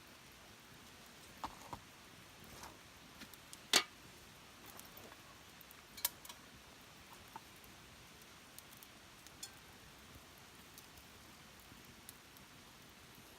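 Small wood fire crackling: sparse, irregular sharp pops over a faint steady background, the loudest about four seconds in.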